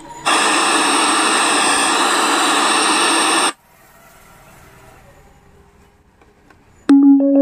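A loud steady static hiss, as from an untuned radio channel, starts sharply and cuts off after about three seconds. A faint hum follows, then steady chime-like tones start near the end.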